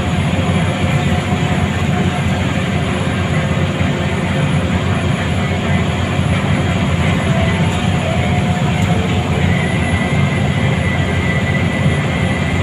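Scania L94UA city bus running steadily, its engine and road noise heard from inside the passenger cabin.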